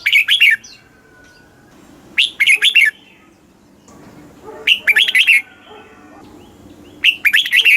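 Red-whiskered bulbul singing: four short phrases of quick, warbling notes, one about every two and a half seconds.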